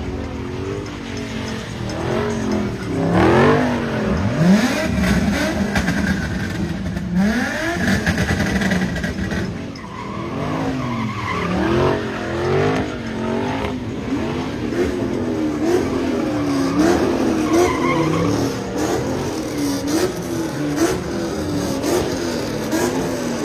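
A car drifting in a lot: the engine revs rise and fall about once a second as the driver works the throttle, with a couple of sharp revs up early on, over the steady squeal and hiss of spinning, sliding tyres.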